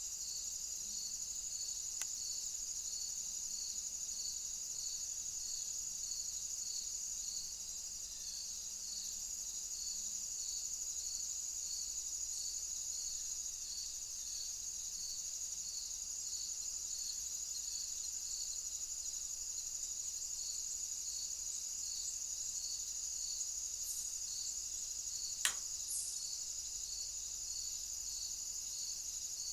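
Crickets chirping: a steady high-pitched trill with a softer chirp repeating about one and a half times a second, and a single sharp click near the end.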